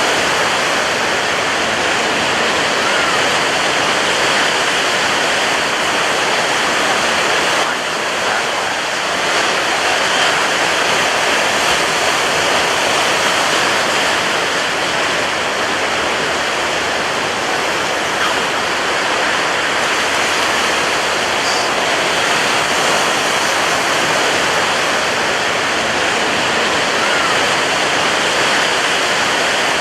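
Ocean surf breaking on a beach: a dense, steady wash of wave noise with no separate crashes standing out, dipping briefly about eight seconds in.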